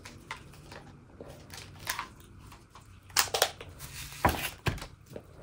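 Scattered small clicks, taps and knocks of objects being handled, with a few sharper knocks in the second half.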